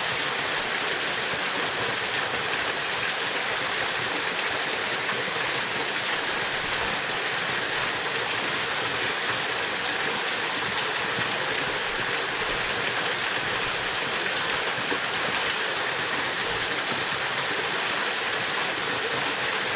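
A small waterfall pouring steadily into its pool, an even rushing of water that does not change.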